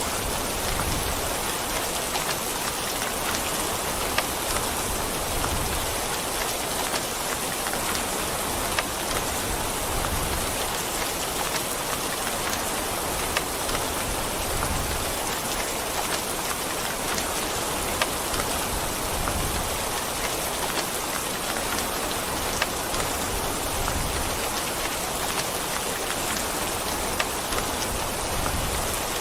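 Steady rain falling: an even hiss of rainfall with scattered sharper ticks of single drops.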